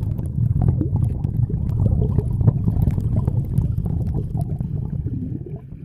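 Water churning and splashing, a low rumble with many small crackles, dying away near the end.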